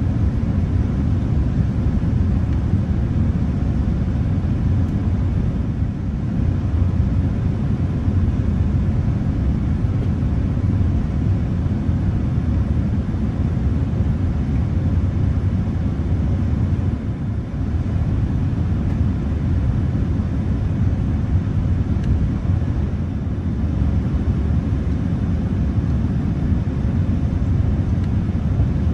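Steady low rumble of engine and airflow noise heard inside the cabin of a Boeing 787-10 airliner, with no distinct events.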